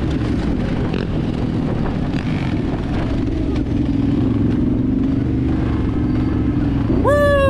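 Dirt bike engine running steadily while riding. Near the end a person shouts a long rising-then-falling "woo!".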